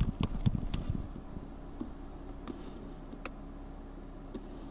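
Car engine idling, heard from inside the cabin as a steady low hum with a faint steady tone; the intermittent squeal is not audible. A few knocks from the camera being handled in the first second, and a single click about three seconds in.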